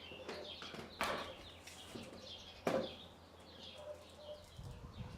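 Birds chirping in the background with short, quick calls, and two sharp clicks, one about a second in and one near three seconds in.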